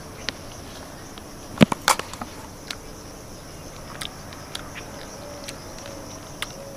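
Steady high-pitched chirring of insects in dry brush, with scattered sharp clicks and snaps close by, the loudest pair about one and a half to two seconds in.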